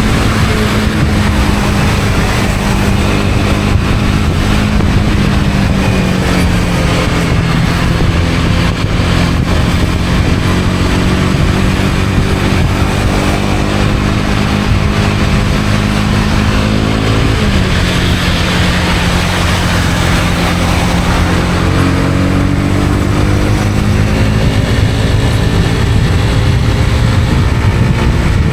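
Honda CB250R's single-cylinder engine running under way, with wind and road noise over it. The engine note sinks gradually about six seconds in, drops suddenly at about seventeen seconds, then climbs again a few seconds later.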